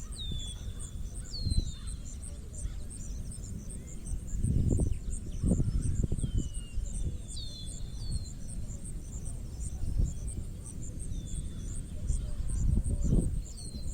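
Countryside ambience: an insect chirps high and evenly, about four pulses a second, while short falling whistled bird calls sound every few seconds. Low rumbles come and go, loudest a little past a third of the way in and near the end.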